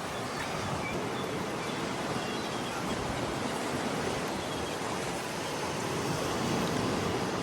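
Steady rushing noise of sea surf and wind, with no distinct events.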